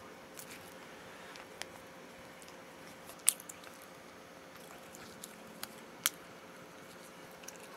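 Quiet chewing of a dry red bean bun, broken by a few sharp clicks, the loudest about three seconds in and another about six seconds in.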